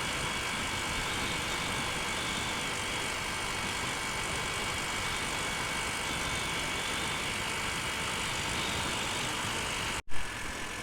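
Honda motorcycle cruising at steady highway speed: a constant rush of wind and road noise with the engine running evenly underneath. Near the end the sound drops out for an instant, followed by a short loud thump.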